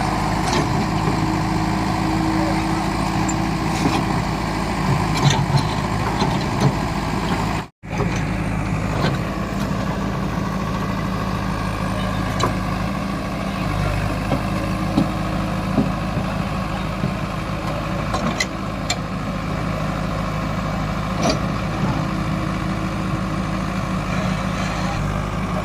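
Heavy diesel machinery engine running steadily, its hum shifting a little about halfway through, with scattered clanks and knocks. The sound cuts out completely for a moment a little under eight seconds in.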